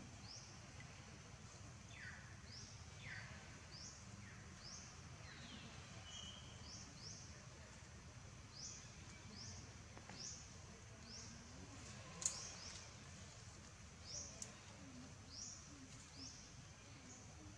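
Faint forest ambience: a bird's short high chirp repeated roughly once a second over a low steady background rumble, with a few fainter falling calls in the first few seconds and a single sharp click about twelve seconds in.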